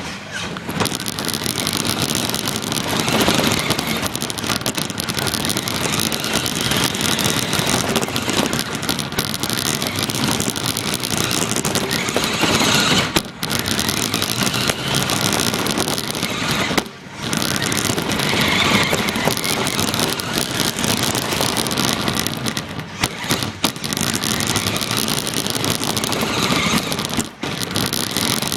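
Radio-controlled car driving, heard from a recorder taped onto it: a continuous rushing, clattering noise, with three brief lulls.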